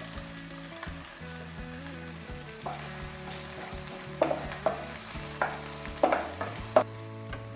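Chopped onion, garlic and green chillies sizzling in hot oil in a nonstick kadai, with a steady high hiss. A wooden spatula scrapes and taps against the pan several times in the second half as the mixture is stirred.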